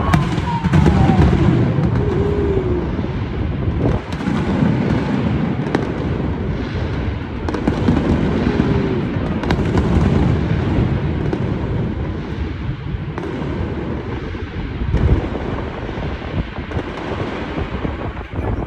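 Brocade fireworks shells bursting in a dense, near-continuous barrage, many booms overlapping into a steady rumble with sharp reports throughout.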